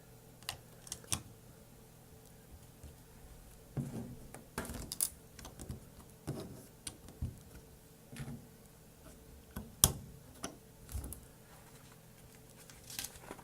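Plastic LEGO bricks clicking and rattling as pieces are handled and pressed together. The clicks come irregularly, with one sharper snap about ten seconds in.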